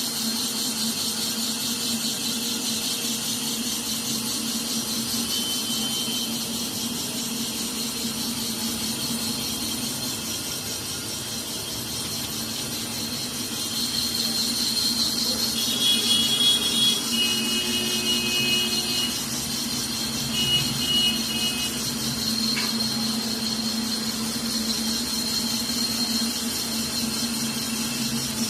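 Cylinder boring machine running with a steady hum as its cutter bores out a cylinder of a Tata Ace Mega engine block. Short high squeals from the cut come and go for several seconds past the middle.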